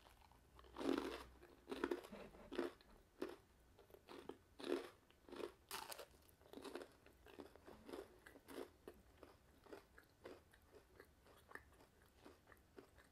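Person biting into and chewing an oven-crisped Lean Cuisine spinach artichoke and chicken panini: a few loud crunches from the toasted bread in the first six seconds, then softer chewing about twice a second that fades toward the end.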